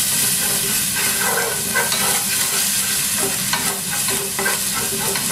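Chopped green chilli and ginger sizzling in hot ghee with mustard seeds, cumin and curry leaves, stirred with a wooden spatula. The steady frying hiss is broken by irregular scraping strokes of the spatula across the pan.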